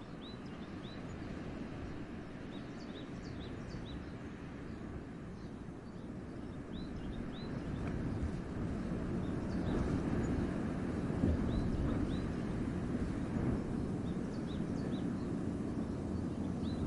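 Wind blowing through a winter forest, a low rushing that swells louder about halfway through, with a small bird giving short, high repeated chirps throughout.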